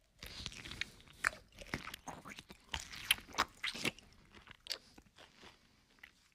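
A person chewing and biting a hard-boiled egg: irregular wet mouth smacks and sharp clicks, the loudest between about one and four seconds in.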